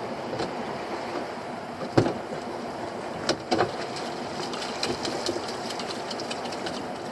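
Small boat's engine running steadily, with a few sharp knocks and clatters over it, the loudest about two seconds in.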